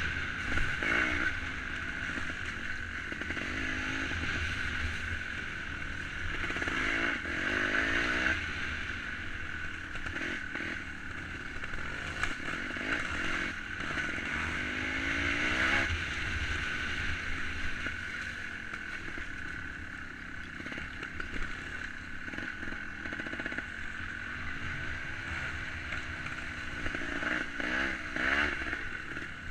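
Two-stroke trials motorcycle engine revving up and down over and over as it rides over rough ground.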